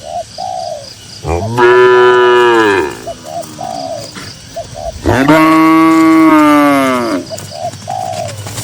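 Cattle mooing: two long moos, the second a little longer, with short quieter calls between them.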